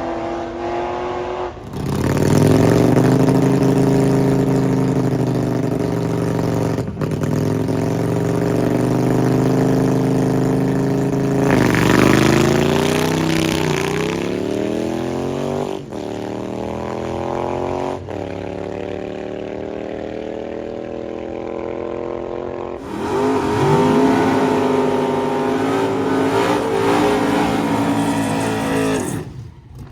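Loud drag-racing car engines running hard at high revs, their pitch holding, then rising and falling. The sound changes abruptly several times, as short clips are cut together.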